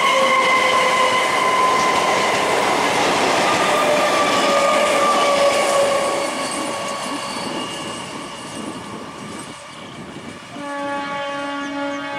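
An electric multiple-unit local train runs past close by: loud rail and wheel noise with a faint whine. The noise then fades, and near the end an approaching EMU sounds a long, steady horn blast.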